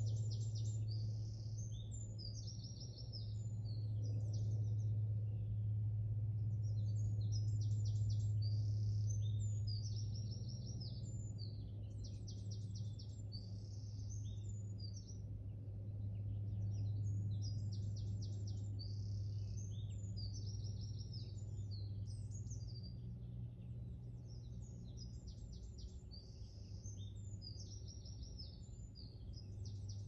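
A songbird singing in bursts of quick trills and repeated high notes, a group of phrases every few seconds. Underneath runs a steady low hum that swells and fades.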